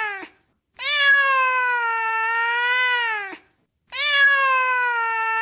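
Domestic cat giving long, drawn-out meows, each about two and a half seconds and dropping in pitch at the end. One call ends at the start, a second follows, and a third begins about four seconds in, with short gaps of dead silence between them.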